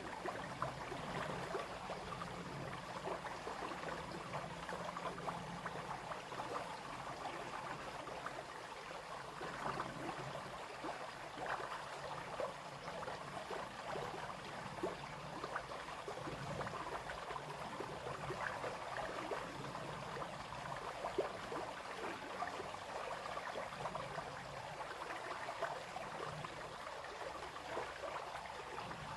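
Brook water babbling and splashing steadily over stones: a continuous, even rush of small splashes.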